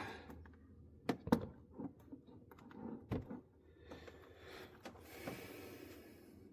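Handling noise in a workshop: a few sharp knocks and clicks, two close together about a second in and another near three seconds, then a soft rustling hiss for a couple of seconds near the end.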